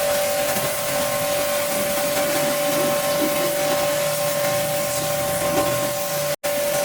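Pressure washer running and spraying: a steady whine from its pump motor over the hiss of the water jet. The sound cuts out for an instant near the end.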